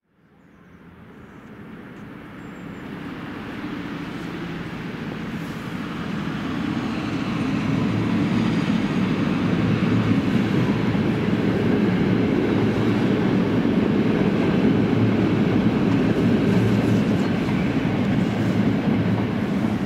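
SU42 diesel locomotive hauling a passenger train over a railway viaduct: a steady engine drone and wheel rumble that grows louder over the first seven or eight seconds, then holds steady as the coaches roll past.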